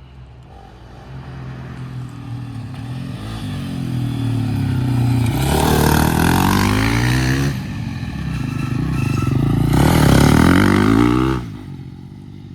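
Dirt bike engine accelerating, growing louder as its pitch climbs. The pitch drops suddenly about seven and a half seconds in, then climbs again to the loudest point before falling away sharply about a second before the end.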